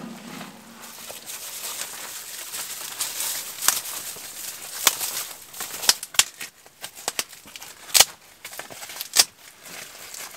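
A fire being coaxed from carried embers into new wood: a steady hiss, then a series of sharp, irregular snaps and pops, loudest about four, five, eight and nine seconds in.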